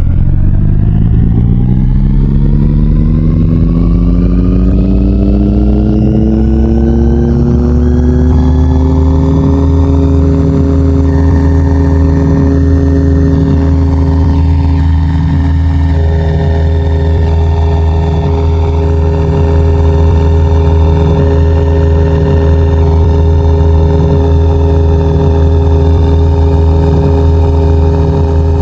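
Ceiling fan motor spinning up, its loud hum rising in pitch for about ten seconds and then holding at a steady pitch with a slight regular pulsing.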